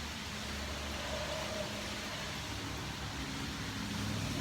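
Steady hiss of rain falling, mixed with traffic on the wet highway nearby, tyres hissing on the wet road under a low rumble.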